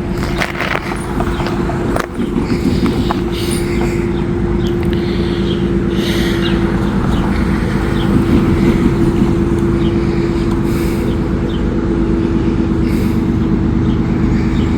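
Steady low rumble and hum of an approaching diesel freight train, not yet in sight, its locomotive not working hard.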